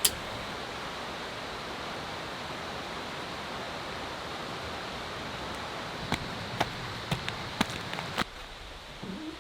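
Steady outdoor rushing noise, with a sharp click at the start and a quick run of sharp clicks and knocks about six to eight seconds in; the rushing drops off abruptly after the last knock.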